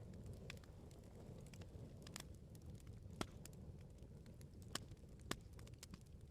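Wood bonfire crackling quietly: irregular sharp snaps and pops over a low steady rumble of the flames, with a few louder pops in the second half.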